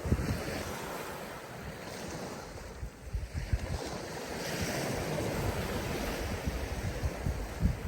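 Sea waves washing on the shore, swelling and easing, with wind gusting on the microphone.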